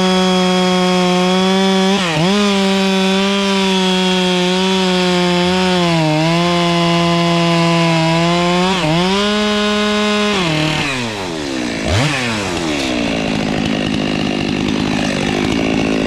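Chainsaw running at full throttle while cutting wood, its pitch dipping briefly three times as the chain takes load. About ten seconds in the throttle is released and the engine note falls, then a quick rev near twelve seconds before it settles lower.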